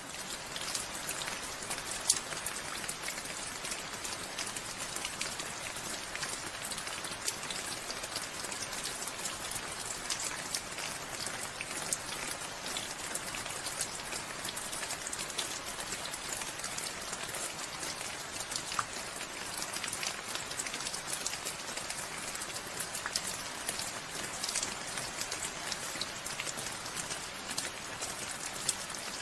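Steady rain falling, an even hiss with many individual drops ticking on surfaces and one sharper drop about two seconds in.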